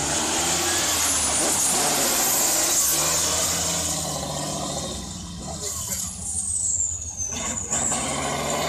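A truck's engine running loud, swelling to its loudest a second or two in and then easing off, as if the truck passes close by.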